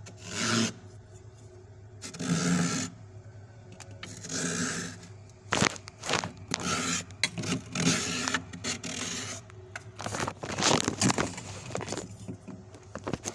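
Knife blade scraping soft, freshly formed frost in a fridge freezer. A few separate strokes come about two seconds apart, then from about halfway the scraping turns quicker and denser, with sharp clicks among the strokes.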